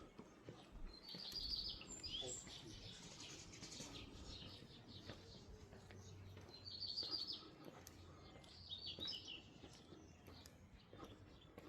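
Small songbirds chirping in short bursts of rapid, high trilled notes, four times, over faint street ambience.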